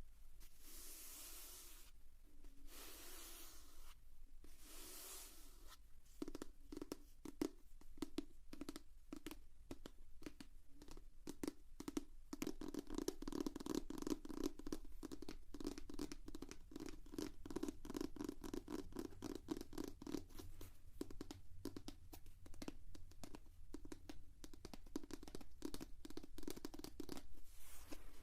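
Fingers stroking across a notebook in three slow swishes, then rapid tapping on the notebook, many quick taps a second, from about six seconds in.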